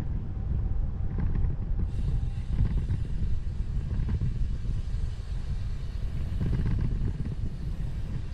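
Continuous low rumble of wind and road noise on the microphone of a bike-mounted 360 camera while riding.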